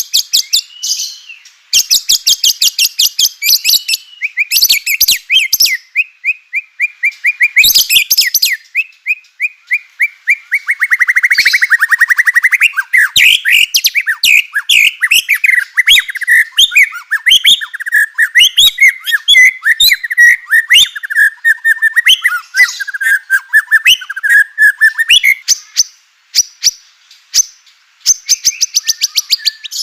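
White-rumped shama (murai batu) in full song: fast, dry rattling note trains for the first several seconds, then from about ten seconds in a long unbroken run of quick, varied whistled phrases, with rattles returning near the end.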